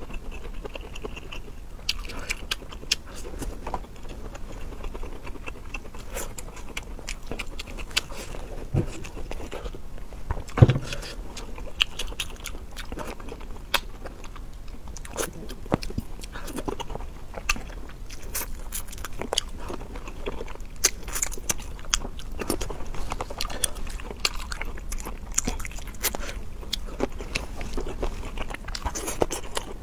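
Close-miked chewing and biting of food, starting on a mouthful of broccoli, with many sharp irregular crunches and wet mouth clicks. One louder knock comes about ten seconds in.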